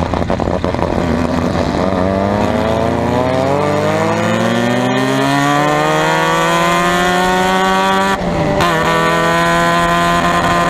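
Formula Mazda race car's rotary engine accelerating hard, its pitch climbing steadily for several seconds. About eight seconds in the sound breaks off briefly and drops at an upshift, then climbs again in the next gear.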